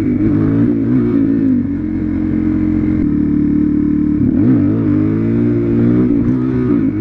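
Suzuki DR-Z400SM's single-cylinder four-stroke engine pulling hard in second gear during a clutch-up wheelie. It holds a steady high note, and about four seconds in the revs drop sharply and climb again.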